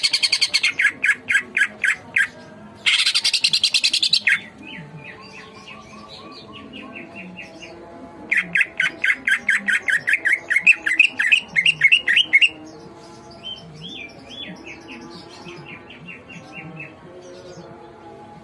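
Green leafbird (cucak ijo) singing hard: fast runs of repeated chirps and loud, dense trills, with the loudest bursts near the start, around four seconds in and in the middle, and fainter warbling beneath.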